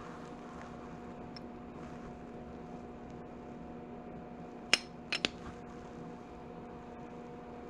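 Three sharp metallic clinks about halfway through, one and then a quick pair, like metal tools or parts knocked together, over a steady low hum.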